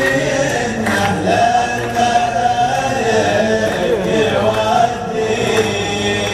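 Music: Arabic male vocal chant, with long, wavering sung notes over layered backing voices and no clear words.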